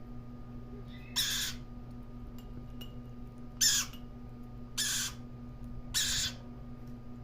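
Lory chick giving four short, harsh calls, each about a third of a second long and spaced one to two and a half seconds apart. A steady low hum runs underneath.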